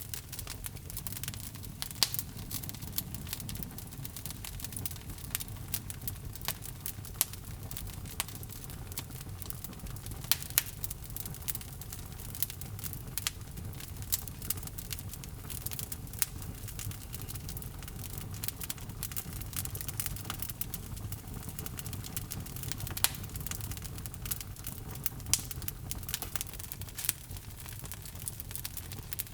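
Wood logs burning in a fireplace: crackling with frequent sharp pops and snaps over a steady low rumble of the flames.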